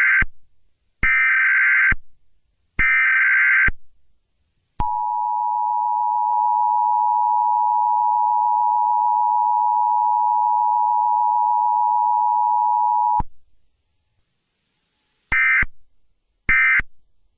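Emergency Alert System broadcast tones: the SAME header's warbling data bursts, about a second each, then the two-note EAS attention signal held steady for about eight seconds. Near the end, shorter data bursts begin, the end-of-message code.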